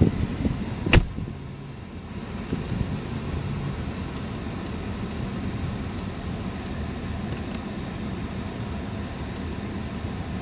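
Steady low hum inside the cabin of a 2018 Mercedes-Benz S560, its 4.0 L biturbo V8 idling, with one sharp knock about a second in.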